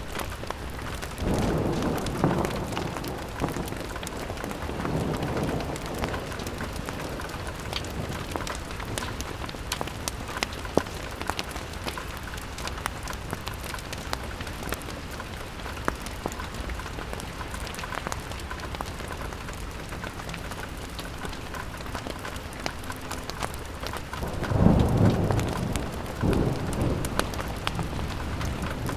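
Steady rain pattering on a window, dotted with sharp ticks. Low rumbles swell up twice near the start and once more, louder, near the end.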